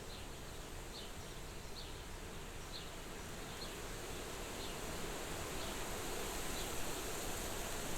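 Soft wind blowing against a farmhouse window, a steady hiss that swells a little about halfway through. A faint high chirp repeats about once a second during the first half.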